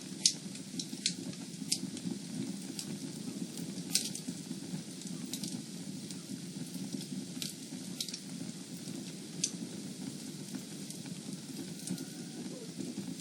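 Wood fire burning in a fireplace: a steady low rush from the flames with sharp crackles and pops every second or two. The loudest pops come just after the start and about four seconds in.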